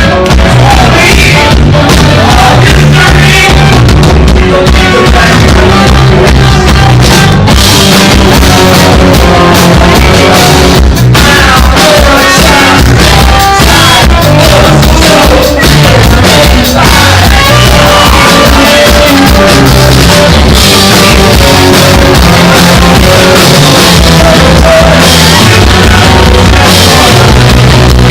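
Live rock band with vocals, distorted guitars, bass and drums, played very loud and recorded close enough to clip.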